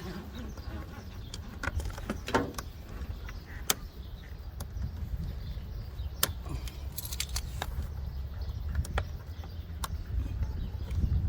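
Irregular sharp clicks and small rattles of hard plastic and metal parts being handled at a car's fuse box, over a steady low rumble.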